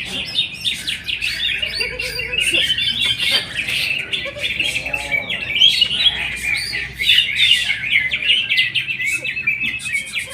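Greater green leafbird (cucak hijau) singing a fast, unbroken stream of chirps and warbled phrases.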